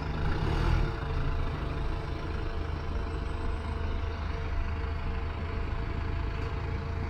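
A steady low mechanical hum, like a running engine or motor, holding level throughout.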